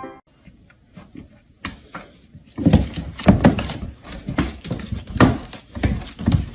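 An animal's repeated loud calls, about two a second, starting a little over two seconds in after a quiet stretch.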